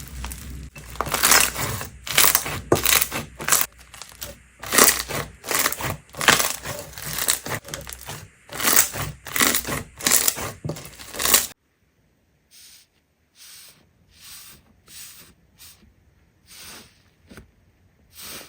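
Slime being squeezed and pressed by hand: a dense, irregular run of squishing, crackling noises. About eleven seconds in it cuts to a quieter clip of separate short squishes.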